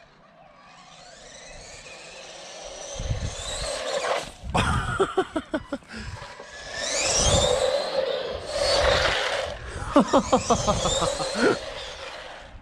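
Brushed electric motor and gearing of a 1/16 RC monster truck whining, rising in pitch with each burst of throttle, several times over, mixed with the rumble of its tyres on the ground and a few low thumps.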